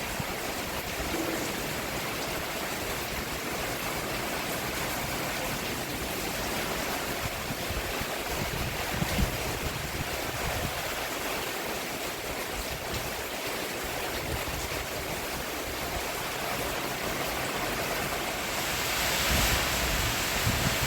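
Steady rain falling on a roof, an even hiss that swells a little near the end, with a few brief low thumps.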